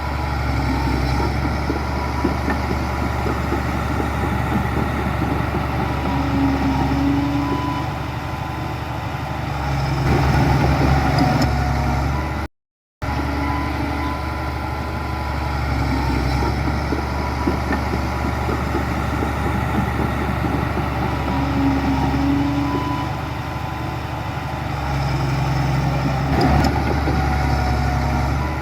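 Heavy diesel engine of earthmoving machinery running steadily, growing louder for a couple of seconds before dropping back. There is a brief cut to silence about halfway through.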